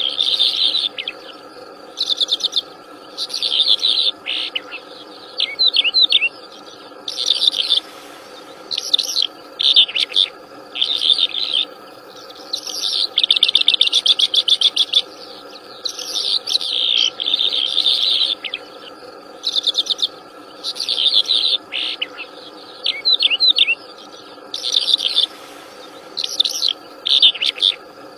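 A wild songbird singing continuously in short, varied phrases of trills and sweeping notes, repeated every second or two, over a steady background drone of insects.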